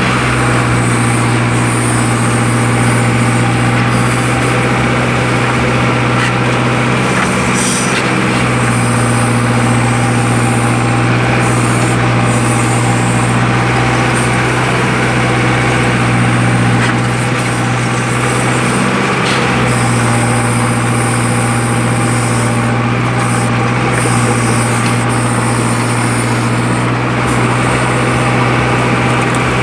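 Tractor diesel engine running steadily at a constant speed, driving a backhoe attachment.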